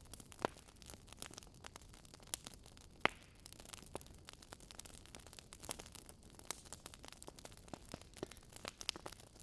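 Wood fire crackling: irregular sharp pops and snaps over a faint steady hiss, with one louder pop about three seconds in.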